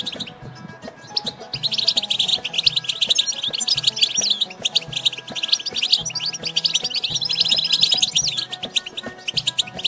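European goldfinch twittering song: a fast, continuous run of high, bright chirps and trills, pausing briefly near the start before resuming.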